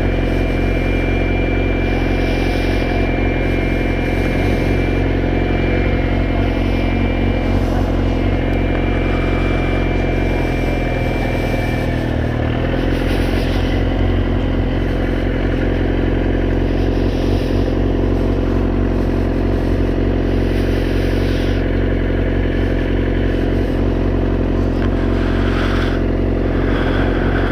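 Motorcycle engine running steadily at low speed, with a slight change in its note about twelve seconds in.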